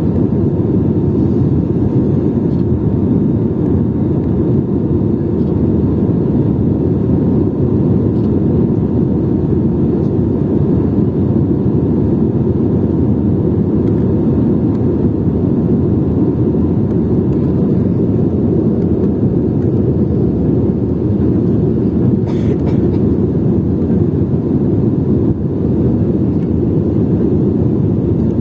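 Jet airliner running with a steady low roar and a faint steady whine above it.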